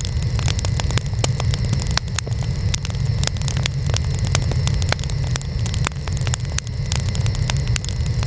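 Wood fire burning: many sharp crackles and pops, several a second, over a steady low rumble.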